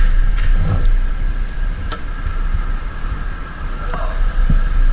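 Steady motorcycle riding noise, mostly wind and road hiss, with a couple of faint ticks.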